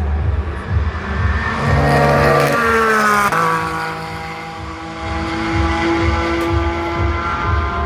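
GT race car engines at speed. The loudest car peaks about two to three seconds in, and its engine note drops sharply just after three seconds. Several other engine notes then hold fairly steady.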